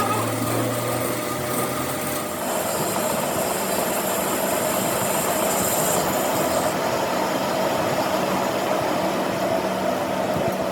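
Steady mechanical running noise, an even hiss and rumble with no breaks, with a faint hum for the first two seconds and its high hiss dropping away about seven seconds in.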